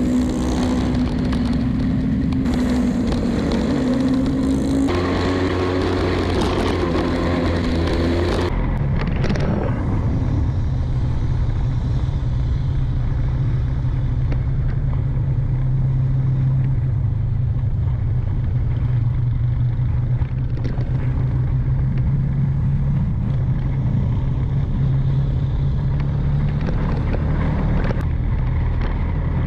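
Small underbone (kapcai) motorcycle engine running steadily while riding. Its note shifts about five and eight seconds in, then holds steady.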